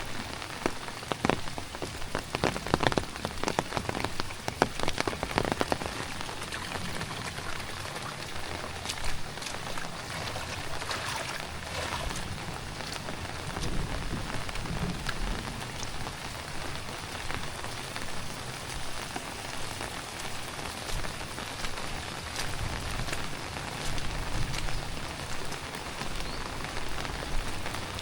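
Heavy tropical rain falling steadily, with a dense patter of sharp drop hits that is busiest in the first few seconds.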